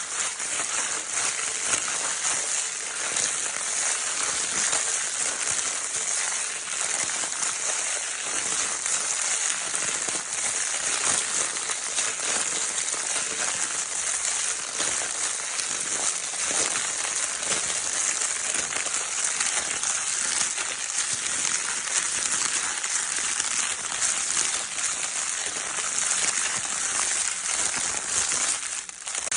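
Crinkle-paper baby toy being steadily crumpled and squeezed: a dense, continuous crackling rustle, strongest high up.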